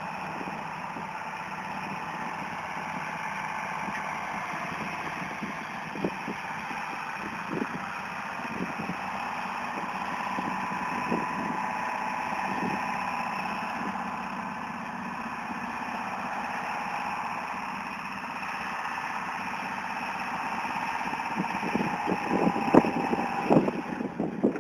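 Tractor engine running steadily while hauling manure, with scattered knocks and clanks. It grows louder, with sharper knocks, near the end.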